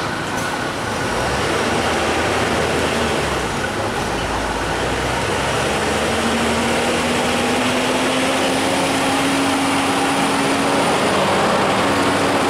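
Passenger train running along the track: a steady, dense rumble of the moving coaches. From about halfway through, a low hum slowly rises in pitch.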